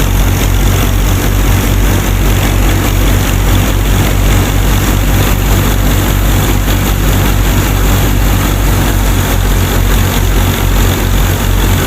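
A small engine running steadily at an even idle, its fast, regular firing pulses unchanging throughout.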